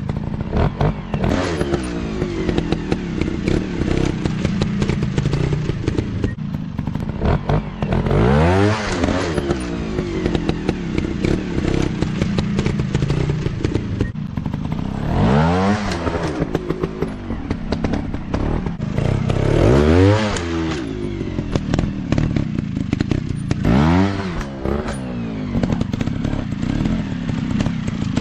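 Small single-cylinder dirt-bike engine running at low revs. The revs rise sharply and drop back about four times, roughly every four to eight seconds.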